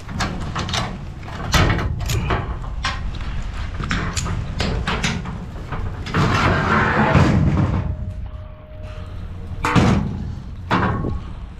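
A string of sharp knocks, thuds and slams, with a longer rushing noise about six seconds in and a brief steady hum a little later.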